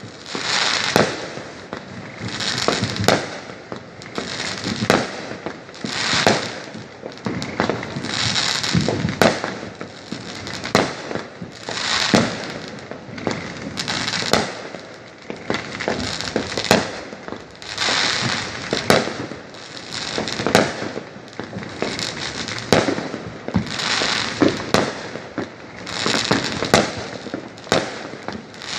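Fireworks going off in quick succession: sharp bangs, each with a short burst of crackling noise, about one every second or two.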